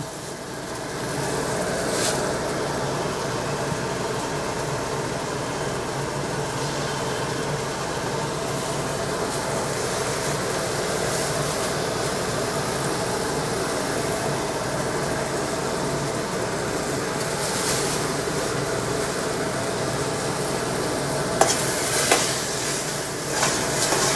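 Pork cracklings and onion sizzling steadily as they fry in tomato paste in a pot, with a few clicks and knocks of stirring near the end.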